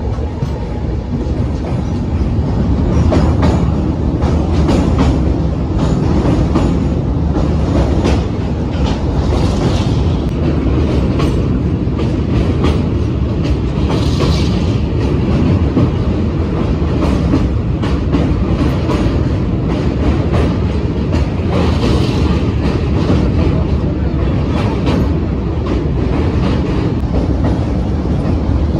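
Danapur Jansadharan Express passenger train running on the line: a steady loud rumble of wheels on rails, with irregular clacking over the rail joints.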